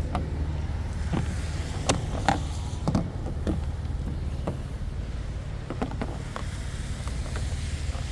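Snow brush and scraper knocking and scraping irregularly as snow is cleared off a car, over a steady low rumble.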